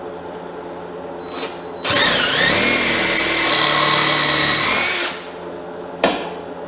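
Electric drill driving a screw into wood for about three seconds: the motor whirs, dips in pitch as the screw bites, then runs steady before stopping. A single sharp click follows about a second later.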